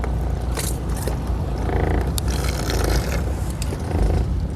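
Steady low rumble of a fishing boat's engine, with a few short clicks and scrapes of tackle being handled.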